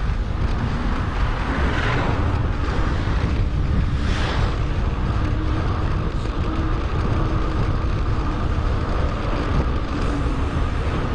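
Wind rushing over an action camera's microphone while riding a bicycle, a steady heavy rumble with no pauses.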